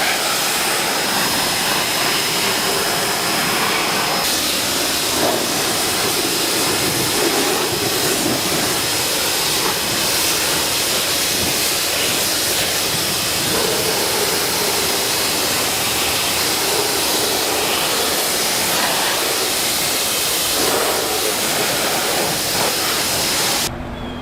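Electric pressure washer spraying a steady high-pressure jet of water, rinsing the foam and dirt off a fire engine, with a thin high whine held throughout; it cuts off suddenly near the end.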